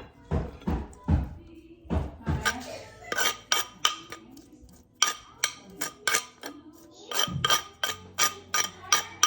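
Kitchen utensils knocking in a steady rhythm of about three strikes a second. Dull thuds come in the first two seconds or so, then sharper, ringing clinks of a utensil against a dish.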